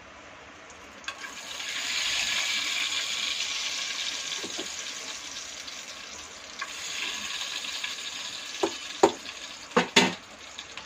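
Food sizzling in a hot pan while a metal ladle stirs. It swells after about a second, fades and returns, and near the end the ladle knocks sharply against the metal pots a few times.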